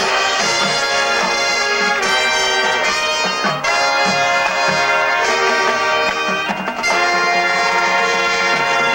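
Youth marching band's brass section playing loud, sustained full chords, with short breaks between phrases about three and a half seconds in and again just before seven seconds.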